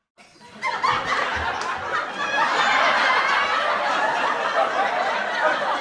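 A crowd of people laughing, a canned laugh track. It starts just after a moment of silence and swells to full laughter about two seconds in.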